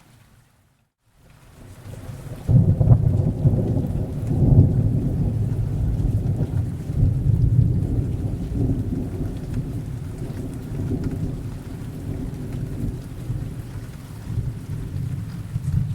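Thunderstorm: a long rolling peal of thunder over steady rain. After a brief dropout to silence near the start, the low rumble builds, breaks in loudly about two and a half seconds in, and rolls on, slowly easing.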